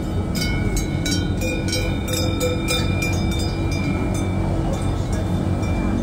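Wengernalp Railway cog train running, heard from on board: a steady electric hum, with a thin high squeal through most of it and quick clicks over the first three seconds.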